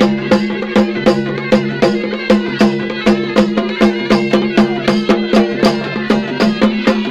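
Traditional tribal folk music: drums beating a fast, even rhythm of about five strokes a second over a steady, unbroken droning tone.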